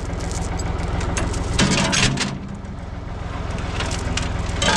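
Ford 555 backhoe loader's engine running steadily, with a noisy burst about one and a half seconds in and a sharp knock near the end.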